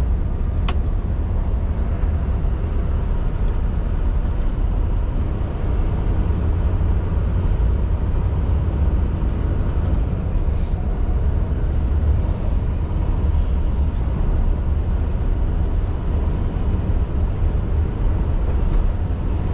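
Scania R620 V8 truck driving at a steady pace, heard from inside the cab: an even low engine drone with road and tyre noise.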